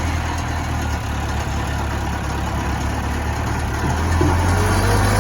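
Caterpillar 426 backhoe loader's diesel engine idling steadily, picking up slightly in speed and loudness near the end.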